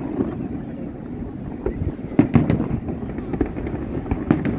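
Fireworks going off: a rapid string of sharp bangs and crackles, densest about two seconds in and again near the end.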